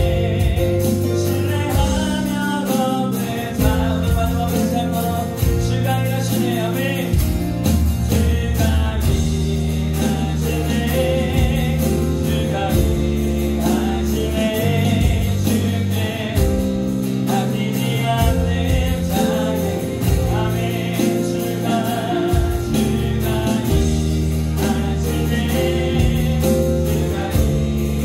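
Live worship band playing a song with singing: acoustic guitar, keyboard, bass guitar and electronic drums under a sung melody, with a steady beat.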